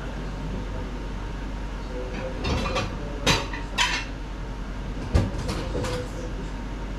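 Dishes and utensils clattering: a handful of sharp knocks and clinks over a steady background hum.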